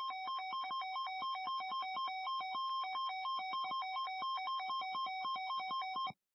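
Electronic weather-alert tone warbling rapidly between two pitches, with a thin high whine above it, that cuts off abruptly near the end. It heralds a newly issued severe thunderstorm warning on NOAA Weather Radio.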